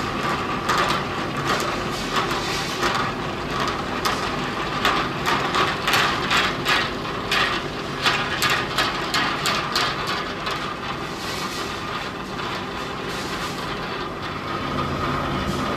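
Factory machinery running with a steady hum and a dense, irregular clatter of metallic clicks and knocks, which thins out after about ten seconds.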